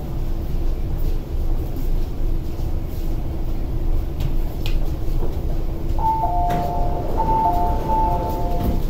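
Interior of an MTR East Rail Line SP1900 (IKK) electric train with a steady rumble and a low hum as it draws to a stop at the platform. About six seconds in, the two-note door chime starts repeating as the doors slide open.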